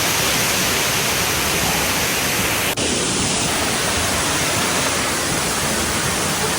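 Waterfall pouring close by: a steady, loud rush of falling water, with a brief break just before three seconds in.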